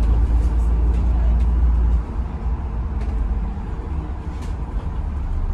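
Bus engine running with a low rumble that drops back about two seconds in, over steady road and rain hiss.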